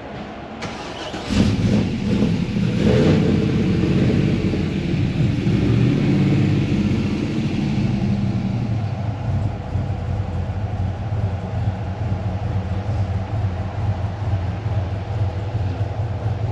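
Car engine starting about a second in, running louder for a few seconds, then settling into a steady idle.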